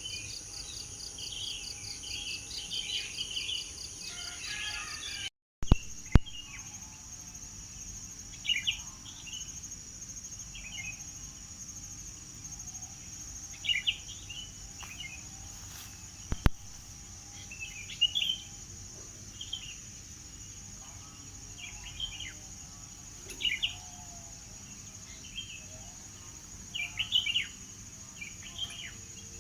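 Songbirds chirping in short phrases every second or two over a steady high insect drone. About five seconds in the sound drops out for a moment and two sharp clicks follow, the loudest sounds here; another click comes near the middle.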